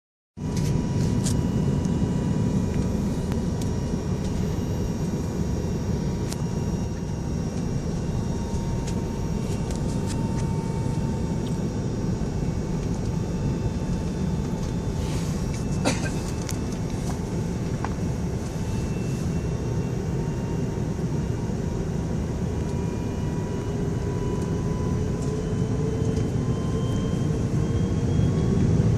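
Airbus A380 jet engines running steadily, a low rumble with a thin whine over it. Near the end the whine begins to rise and the sound grows louder as the engines start to spool up.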